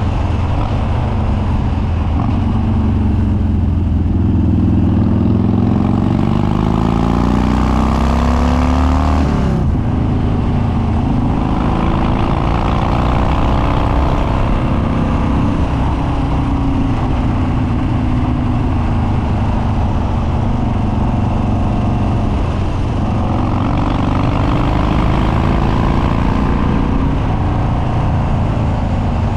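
Harley-Davidson Dyna Street Bob's Twin Cam V-twin with Stage 2 cams and unbaffled upswept dual exhaust, under way. The engine note climbs as it accelerates, drops sharply about a third of the way in, runs fairly steady, then climbs again near the end.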